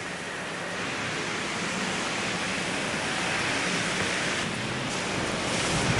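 Steady hiss of rain and wet city street, slowly growing louder, with a faint low vehicle hum coming in near the end.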